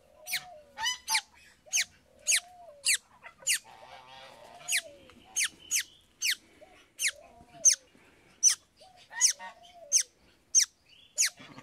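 Birds calling over and over: short, sharp, high calls that drop steeply in pitch, about two a second, with softer, lower calls that rise and fall in pitch between them.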